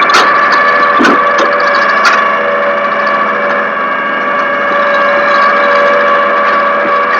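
A steady mechanical whine made of several constant tones, with a few sharp clicks in the first two seconds.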